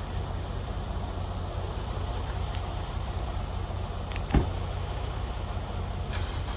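A vehicle engine running steadily with a low rumble, and a single sharp metallic knock about four seconds in.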